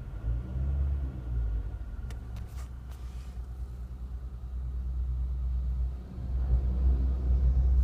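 Low, uneven rumble of a Ford Mondeo Mk3 heard from inside the cabin, swelling louder near the end, with a few short clicks about two seconds in.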